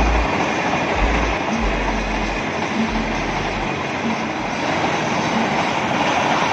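Train passing at close range: a steady rolling rush of railway wagons going by, with deep low rumbling thumps during the first few seconds.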